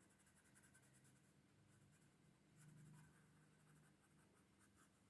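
Faint scratching of a drawing tool on paper as dark shading is laid in, barely above near silence, with a faint steady low hum underneath.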